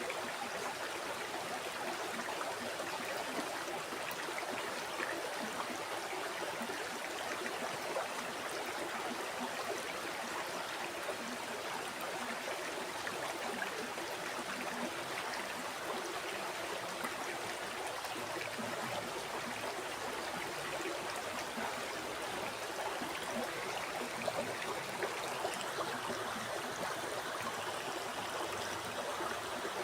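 River water flowing steadily over rocks, an even rushing and burbling of a shallow stream.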